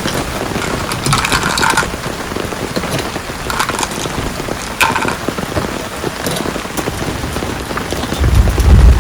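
Heavy rain falling steadily in a downpour, with a deep low rumble swelling in near the end.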